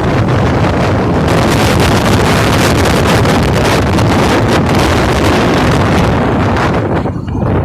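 Very strong wind buffeting the microphone: a loud, steady rushing that drops away briefly near the end.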